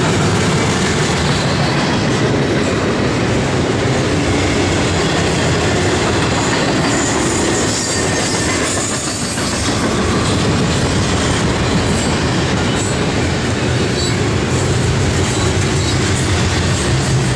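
Double-stack intermodal container train rolling past: a steady rumble and clatter of the loaded well cars' wheels on the rails, with a slight dip in loudness about halfway through.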